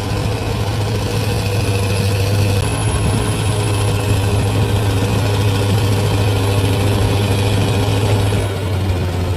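Large bulldozer's diesel engine running steadily with a low, even drone, its level dropping slightly near the end.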